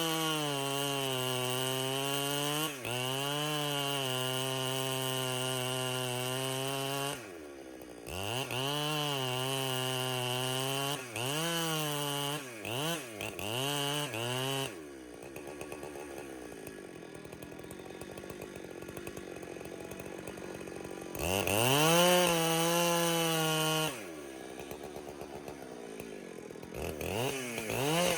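Chainsaw at full throttle cutting through cedar, held high for several seconds and then running with a few quick throttle blips. It drops to idle about halfway through, revs high again for a few seconds, idles, and revs up once more at the end.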